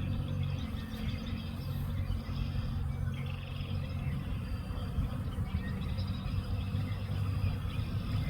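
Songbirds chirping in short calls, with a brief trill about three seconds in, over a low, steady rumble.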